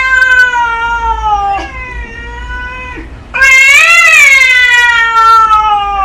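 Cat meowing in long drawn-out yowls: one trails off in the first couple of seconds, a quieter one follows, then a loud yowl starts about three seconds in, rising and then slowly falling.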